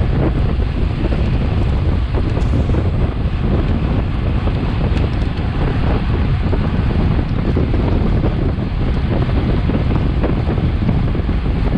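Steady, loud wind noise on a Garmin VIRB action camera's microphone from the air rushing past a racing bicycle, a heavy low rumble with no break.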